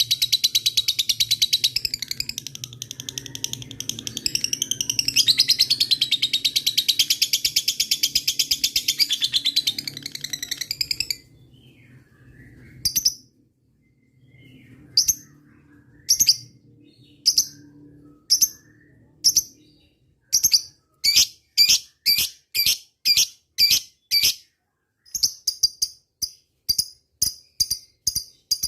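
Lovebird ngekek: a long, very rapid, unbroken chattering trill for about the first eleven seconds. It is followed by separate sharp chips about a second apart that quicken to roughly two a second near the end, the clipped ticking style called ngetik.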